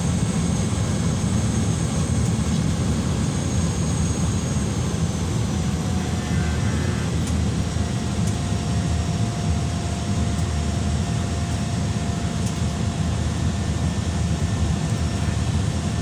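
Steady engine and propeller drone inside the passenger cabin of a small propeller plane in flight, heaviest in the low range and unchanging.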